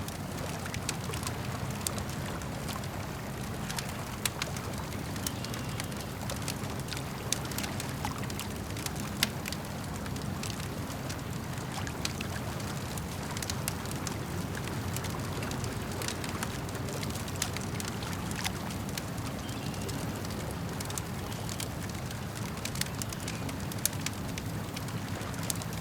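Campfire crackling with frequent sharp, irregular pops and snaps, over a steady low wash of lake water lapping.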